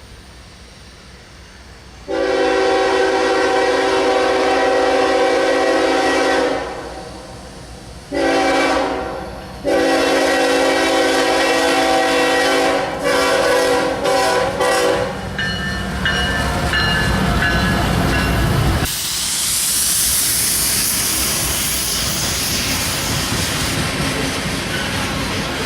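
CSX diesel locomotive's air horn blowing a series of blasts: several long ones, then a few short ones. The locomotive's low rumble builds after the horn stops, then the loaded coal train passes with a steady hissing rush of wheels on rail.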